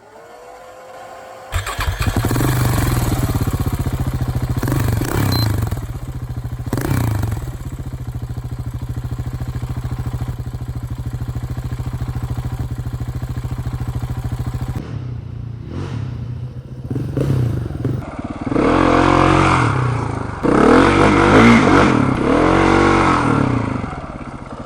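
Motorcycle engine being started. A brief rising whine comes first, then the engine catches about a second and a half in and idles steadily. Near the end the engine note rises and falls several times.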